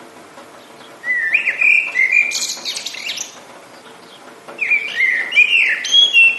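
A songbird singing two phrases of whistled, gliding notes, the first about a second in and the second near the end, over a steady hiss of rain.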